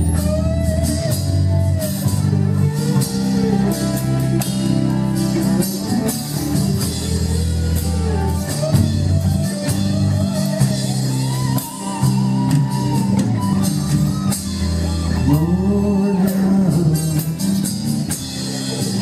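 Live worship band playing: a singer over electric guitar, keyboard and drum kit.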